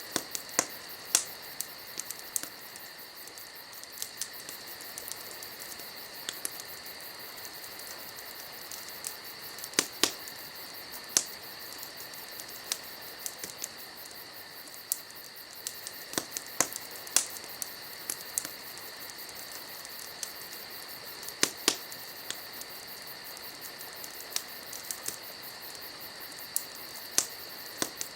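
Wood fire crackling, with irregular sharp pops every second or so. Behind it runs a steady, high insect trill, like crickets at night.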